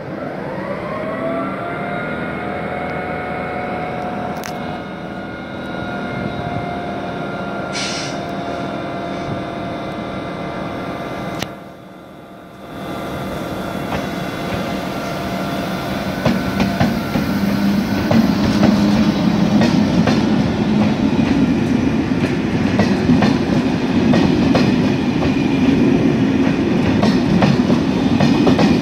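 SNCF BB 26000 electric locomotive hauling Corail coaches. Its electric whine rises in pitch over the first few seconds, then holds steady. From about halfway the train gets louder as the coaches roll past close by, with steady wheel clicks and rumble on the rails.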